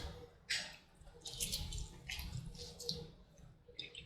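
Faint, wet mouth sounds of eating close to the microphone: several short bursts of chewing and lip smacking.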